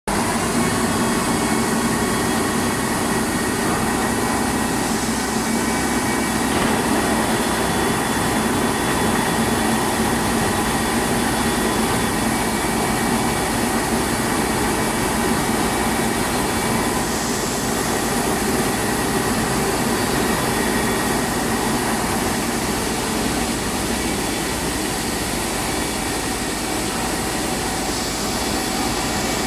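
Rice milling plant machinery running steadily, a dense mechanical noise with a constant hum.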